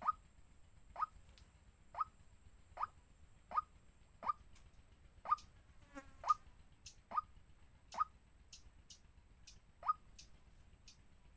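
A bird giving short, sharp single call notes, each falling slightly in pitch, about one a second, eleven in all.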